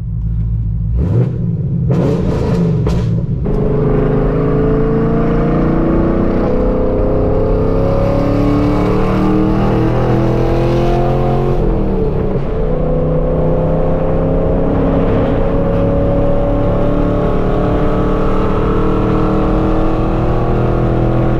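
Straight-piped Chevrolet Camaro SS V8 exhaust, loud, pulling under steady acceleration: the engine note climbs slowly, drops sharply about twelve seconds in at a gear change, then climbs again. A few clicks sound in the first three seconds.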